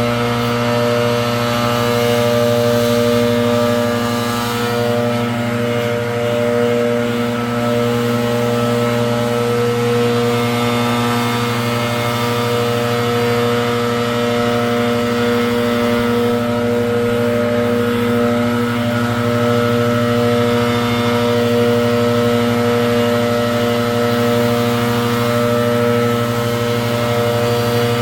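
Gas-powered leaf blower engine running steadily at high speed, holding one constant pitch, with the rush of air from the nozzle.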